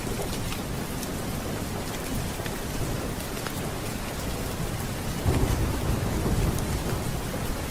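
Steady rain with thunder: a low rumble of thunder swells about five seconds in and rolls on to near the end, over scattered sharp ticks.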